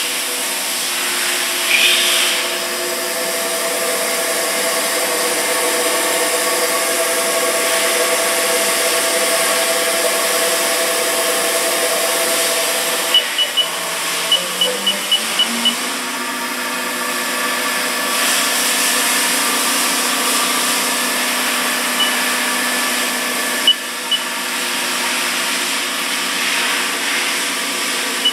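Haas mini lathe running with a steady hum of several tones over a hiss. About 13 seconds in, the hum changes and its lowest tone steps up in pitch, with a string of short high electronic beeps; single beeps come again near the end.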